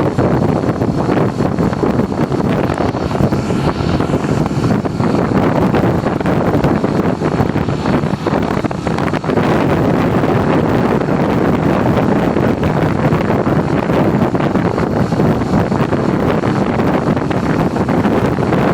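Wind rushing over the microphone of a motorcycle at road speed, a steady loud din mixed with the running of the bike and its tyres.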